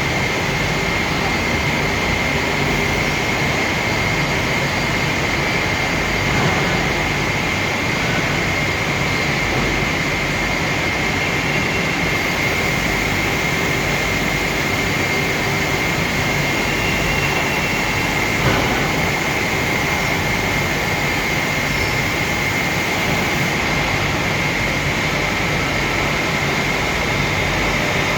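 A machine running steadily with a constant high whine over a dense rushing noise, and two faint clicks about a third and two thirds of the way through.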